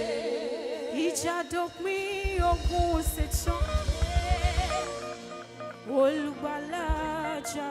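Live gospel band music: a wavering melody line carried over the band, with a rapid drum roll on the kit from about two seconds in until nearly five seconds in, and a few cymbal hits.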